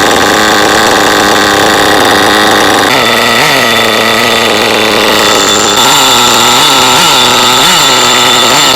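SH .28 two-stroke nitro engine in an HPI Savage X RC truck, running loud and steady. From about three seconds in, its pitch briefly swells up and drops back about once a second.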